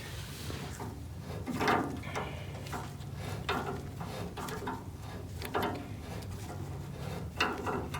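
Irregular knocks and clunks of hand tools working on a car's front steering tie rod while it is adjusted to straighten the wheel, about seven separate strikes over a steady low hum.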